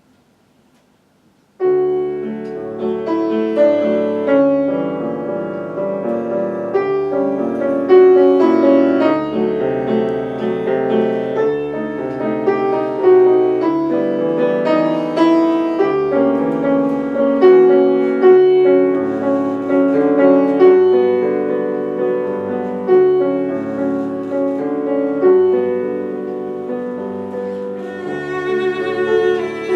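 A slow, lyrical piece for cello with piano accompaniment, beginning about a second and a half in: the cello holds long singing notes over piano chords.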